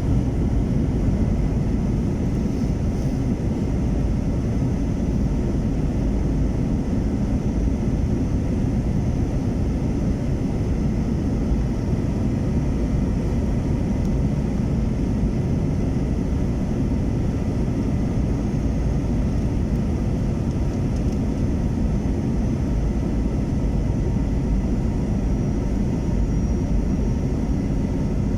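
Airbus A321-231 jet on final approach, its IAE V2500 turbofans heard as a steady low rumble with a faint high whine.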